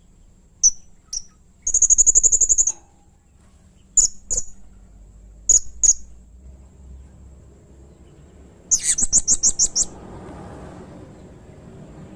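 Blue-crowned hanging parrot (serindit) calling with sharp, high-pitched chirps: two single notes, then a rapid trill of about a second, two pairs of quick chirps, and another fast trill near the end.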